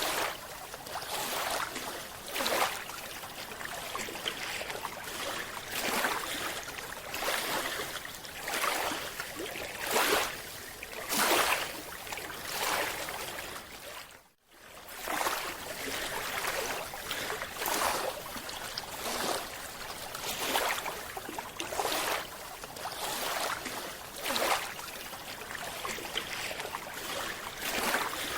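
Water noise recorded underwater: a steady hiss with rushing, bubbling surges every second or two. It drops out briefly about halfway through.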